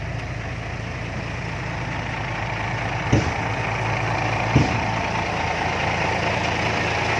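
Diesel dump truck engine running steadily and slowly growing louder as the truck manoeuvres, with two short sharp knocks about three and four and a half seconds in.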